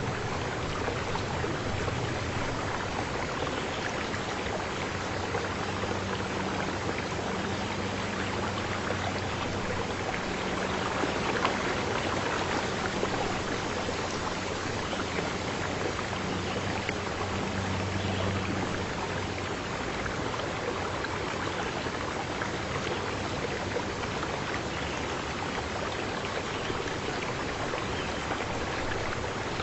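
Steady water noise, even and unbroken, of the kind heard from a stream or from rain. A faint low hum comes and goes under it through the first two-thirds.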